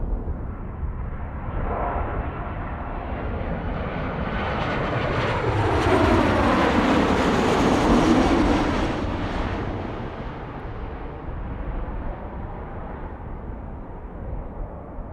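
Jet airliner passing close by: its engine noise builds to a loud peak about halfway through, the whine sliding down in pitch as it goes past, then fades away.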